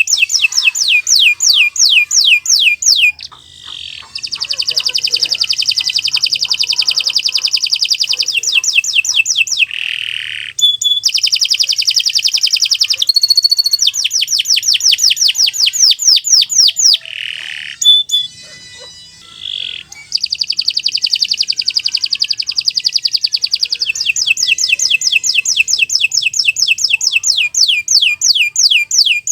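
Domestic canary singing a long song of fast repeated trills and rolls, each run of rapid identical notes passing into the next, with a few short breaks.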